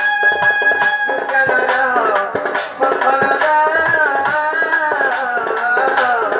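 Indian folk music: tabla-like hand drums keep a steady beat. A melodic instrument holds one note for about a second, then plays a gliding, ornamented line.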